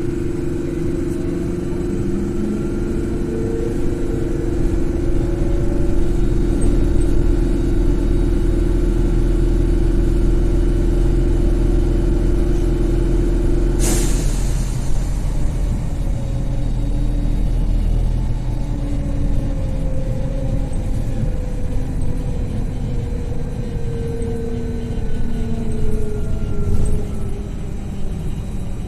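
BKM 42003A trolleybus in motion: its electric traction drive whines, the pitch rising and falling with speed, over steady road rumble. About halfway through, a steady hum cuts off with a sharp click.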